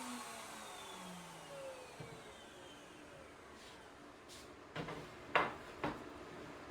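Router motor spinning down after being switched off, a falling whine that fades away over the first two or three seconds. About three short knocks follow near the end.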